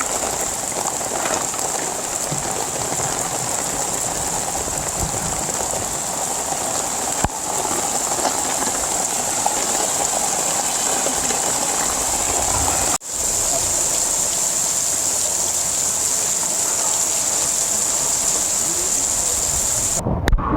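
Heavy rain falling steadily: a dense, even hiss. It drops out for an instant about two-thirds through and cuts off just before the end.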